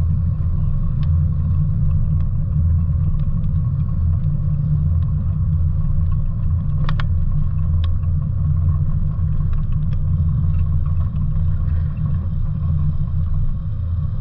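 Mazda Miata's four-cylinder engine idling and rolling at low speed, heard from the open-top cockpit as a steady low rumble.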